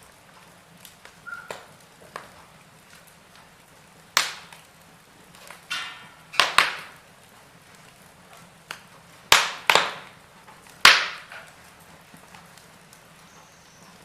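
Wood fire in a fireplace crackling: a soft steady hiss broken by several sharp pops, the loudest bunched in the middle.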